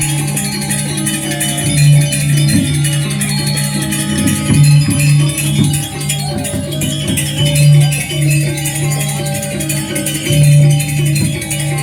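Balinese gamelan music accompanying a Calonarang performance: a sustained low metallic tone that swells every few seconds under busy, jangling cymbal and metallophone playing.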